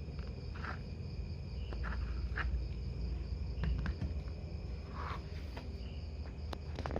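Crickets chirping steadily in the background, with scattered small clicks and knocks over a low rumble.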